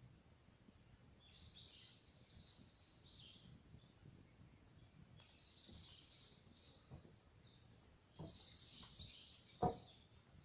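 A songbird singing in three runs of quick repeated chirps, with a few faint crackles from a wood fire and one sharp pop near the end.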